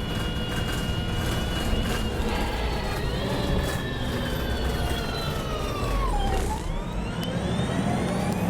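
Wright Pulsar One bus heard from on board: a low engine rumble under a high drivetrain whine. The whine falls steadily in pitch for about four seconds, dips lowest about six seconds in, then climbs again as the bus picks up speed.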